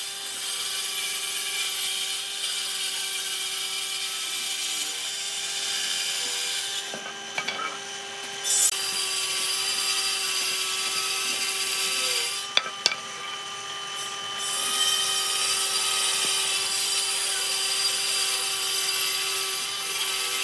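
Electric power tool running steadily on dry stump wood, abrading it with a dense high hiss over a constant motor hum. The grinding eases off twice while the motor keeps running, as the tool comes off the wood.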